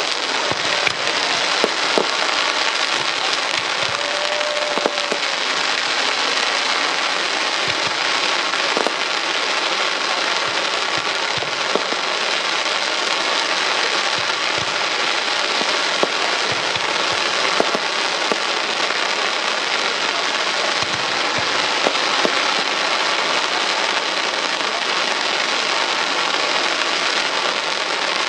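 Fireworks display: a dense, steady crackling like heavy rain, with scattered sharper bangs.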